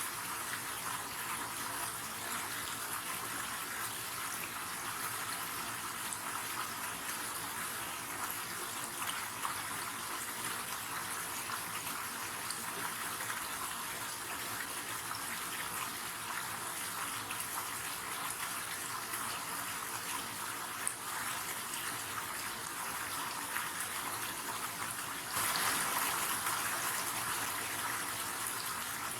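River water rushing steadily, a continuous hiss of flowing water that gets louder suddenly near the end.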